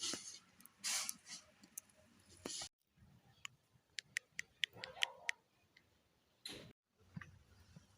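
Rustling bursts, then a quick run of about eight sharp clicks over a second and a half, with a short, soft sound in among them.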